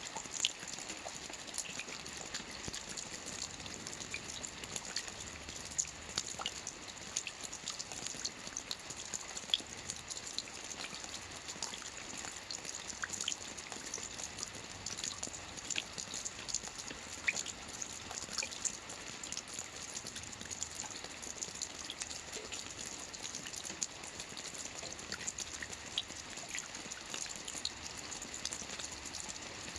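Steady rain falling on a lake's surface: an even hiss dotted with many small, sharp drop splashes.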